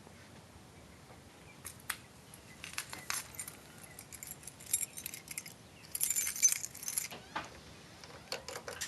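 A bunch of keys jangling and clinking in short bursts, the busiest stretch about six seconds in.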